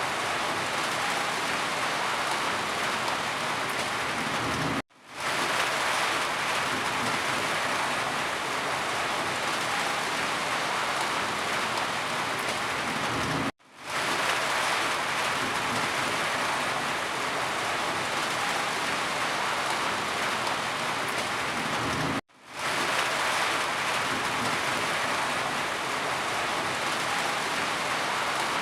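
Steady rain hiss that cuts out suddenly three times, each time fading back in within about half a second.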